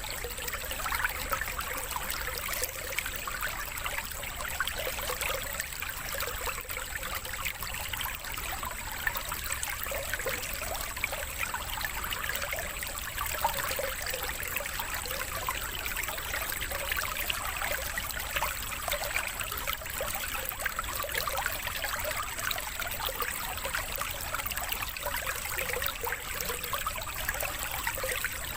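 Running water trickling and flowing steadily like a small stream, with no pauses: a water-therapy sound for songbirds.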